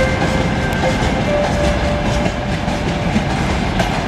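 Freight train of rail tank wagons rolling past close by, its wheels rumbling and clattering over the rail joints. A faint thin squeal rings over it for the first two seconds or so.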